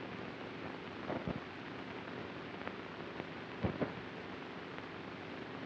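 Hiss and crackle of a worn 16mm film's optical soundtrack: a steady hiss with scattered clicks and pops, loudest in a couple of clusters about a second in and near the middle.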